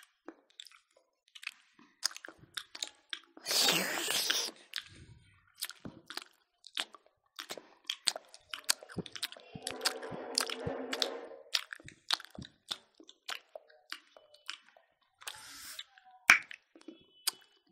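Close-miked chewing and lip-smacking of several people eating smoked pork with their hands, a run of sharp wet mouth clicks. A loud breathy rush comes about three and a half seconds in, and a longer, lower noisy stretch around ten seconds.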